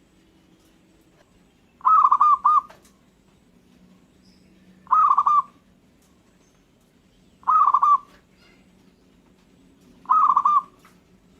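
Zebra dove (perkutut) cooing: four short, warbling coo phrases, one every two to three seconds, the first followed by a brief extra note.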